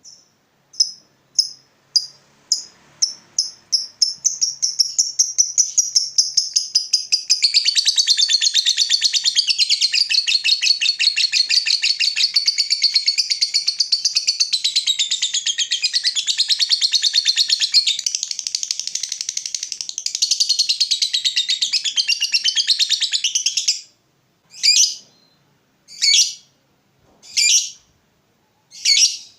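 Lovebird ngekek, the long chattering song: single shrill chirps speed up over the first few seconds and run together into a long, unbroken rapid chatter lasting almost twenty seconds. It then breaks off into single sharp calls a little over a second apart.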